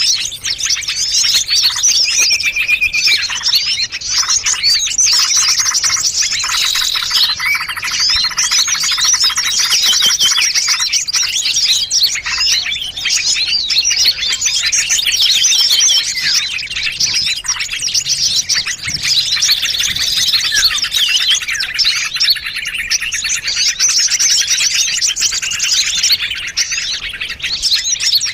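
Dense, unbroken chorus of many small songbirds chirping and trilling rapidly over one another. It is a mixed bird-lure (pikat) recording made to draw in small birds.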